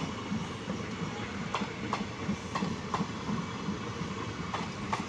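Indian Railways passenger coaches rolling past with a steady low rumble, their wheels clicking sharply over the rail joints every half second or so, often in pairs: a clickety-clack.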